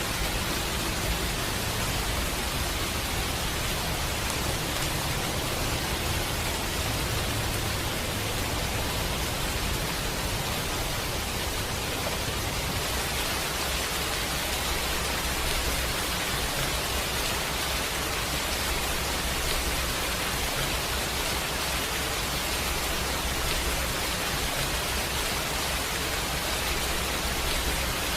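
Steady rain, an even, unbroken hiss with no distinct drops or crackles standing out.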